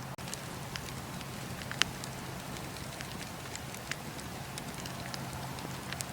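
Campfire burning with a steady hiss and irregular sharp crackles and pops, the loudest pop about two seconds in.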